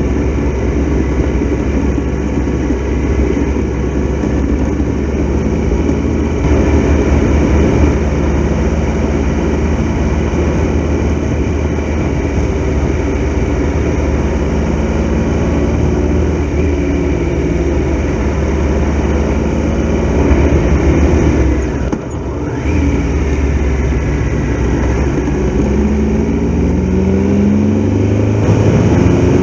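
Triumph Tiger Explorer XRx motorcycle on the move, its three-cylinder engine running under a steady rush of road and wind noise. There is a brief drop in level about two-thirds through, and near the end the engine pitch climbs as it accelerates.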